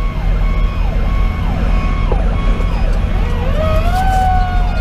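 Fire engine's Detroit Series 60 diesel running under way, heard from inside the cab, with an electronic siren cycling in short falling sweeps. About three seconds in, a Federal Q2B mechanical siren winds up to a long high tone and begins to coast down.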